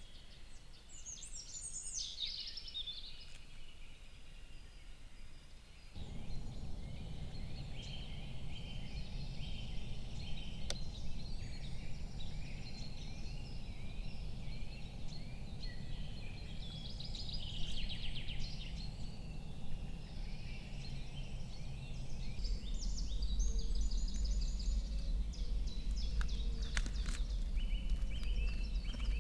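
Spring birdsong from several small birds, short chirps and trills overlapping, over a low rushing background noise that starts abruptly about six seconds in and grows heavier near the end.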